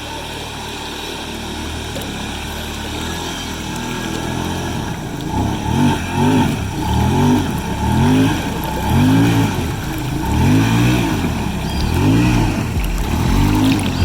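An engine running steadily, then revved up and down over and over, its pitch rising and falling about every second and a half.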